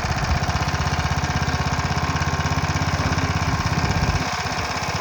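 Hayterette rough-cut mower's 3.5 horsepower single-cylinder engine running steadily under load while cutting grass, with a brief change in its note about four seconds in.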